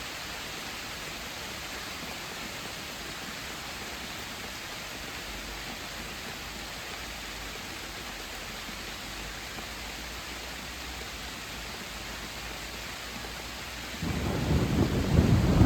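Steady hiss of heavy rain, then a loud low rumble of thunder breaks in about 14 seconds in and keeps rolling.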